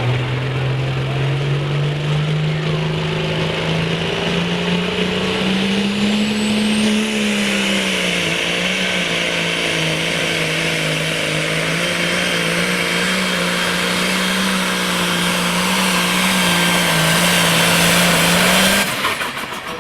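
Turbocharged pulling-tractor engine under full load on a sled pull. It climbs in pitch over the first several seconds and holds high and steady, with a faint high whistle rising about six seconds in. It cuts off abruptly near the end as the run ends.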